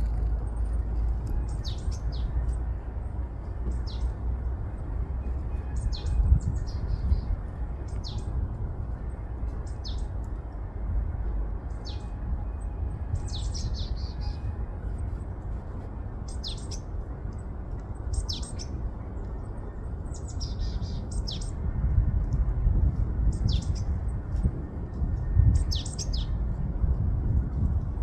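Bird chirping repeatedly, short high chirps that sweep downward, one every second or two, over a steady low rumble of wind on the microphone.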